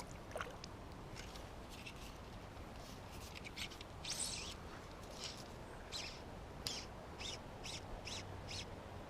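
A small bird chirping: short, high-pitched chirps, scattered at first, then repeating about twice a second over the second half, against faint steady outdoor background noise.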